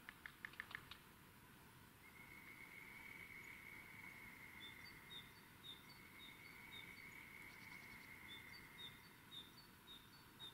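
Faint woodland birdsong: a run of short, high whistled notes repeated about twice a second, twice over, above two long steady whistles. A quick burst of about six sharp clicks comes in the first second.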